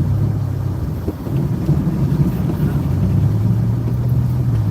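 Old GMC Jimmy's engine running as it is driven slowly with its passenger-side rear wheel gone, a steady low hum that dips briefly about a second in and then holds even.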